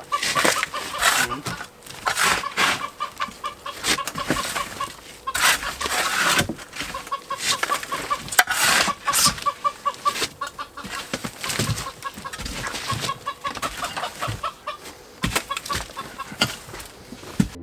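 Irregular knocks and scrapes of tools working on the concrete being cleared out of an old boat, the sharp strikes coming every second or so. Runs of quick, even, clucking-like pulses, several a second, repeat through it.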